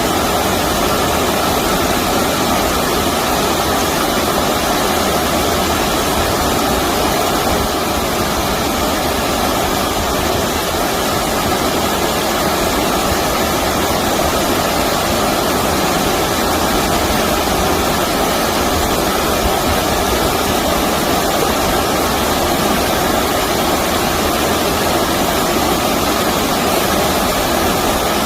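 Stream water rushing in a steady, unbroken wash.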